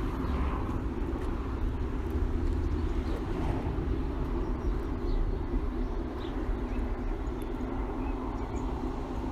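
A steady low engine hum, like a vehicle idling, with a few faint short high chirps over it.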